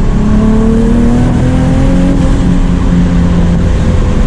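Twin-turbocharged Nissan 370Z Nismo's 3.7-litre V6 engine and exhaust running loud under acceleration, its pitch climbing slowly after a dip just before the start.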